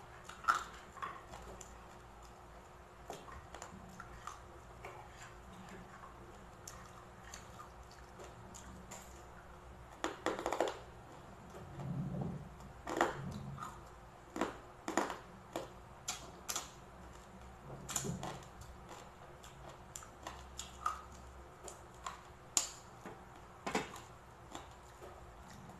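Close-mic eating sounds: crisp-fried pork belly crunched and chewed, with sharp crunches and small clicks scattered throughout and a denser run of crunching about ten seconds in.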